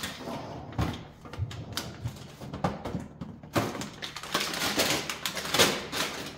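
Plastic bags of frozen fruit crinkling and rustling as they are handled, with a few knocks of frozen packages being set down in a freezer.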